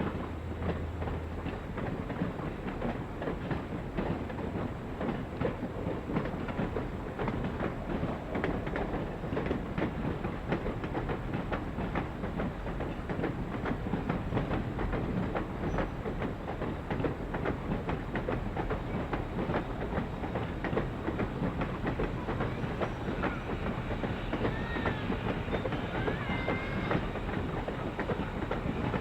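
Steam-hauled excursion train behind Reading & Northern locomotive 425 running, a steady dense clatter of wheels and running gear on the rails. A few faint high squeaks come in near the end.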